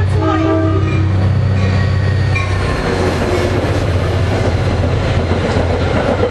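Diesel-hauled commuter train passing close by. A steady low engine drone gives way, about three seconds in, to the rattle and rumble of the cars' wheels on the track.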